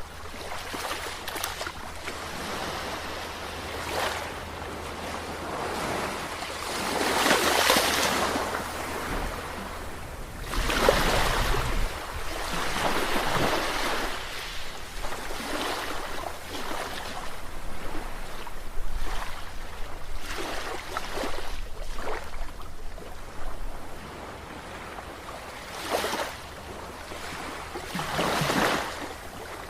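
Sea waves breaking and washing ashore, in repeated surges a few seconds apart, over a steady low rumble.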